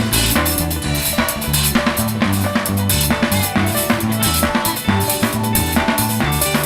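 Live band music led by a full drum kit, with kick and snare keeping a steady beat under held bass notes and sustained chords.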